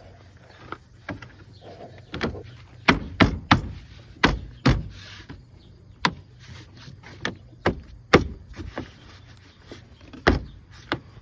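A series of sharp, irregularly spaced metal clanks and knocks from a homemade pickup tailgate being set onto its notched hinges and tried for fit.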